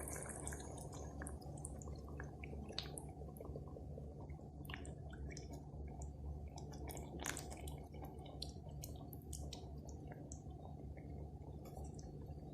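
Pot of chicken and freshly added coconut milk bubbling on the stove: scattered small pops and drips over a steady low hum.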